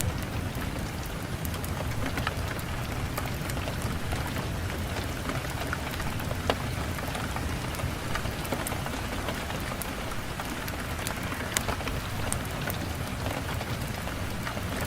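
Steady rain falling, with scattered sharp drops or ticks standing out against the even hiss.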